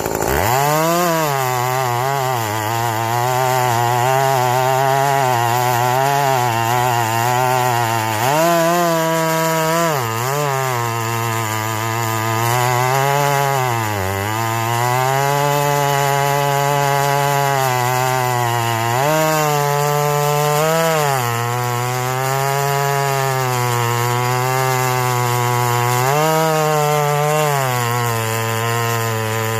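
A small engine running continuously at high speed, its pitch dipping and rising again several times.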